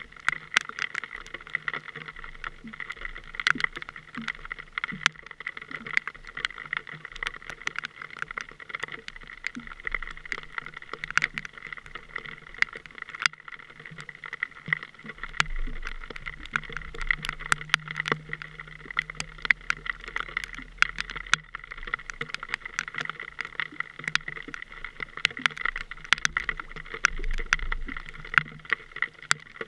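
A boat motor running steadily, with many small clicks and knocks throughout.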